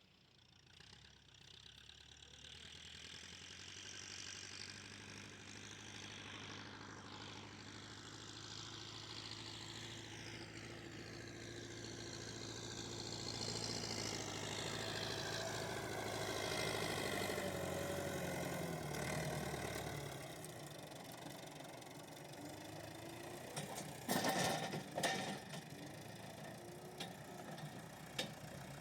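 A vehicle engine running and drawing nearer, growing steadily louder over about seventeen seconds. Its note eases and drops off about twenty seconds in. A few sharp knocks come near twenty-five seconds.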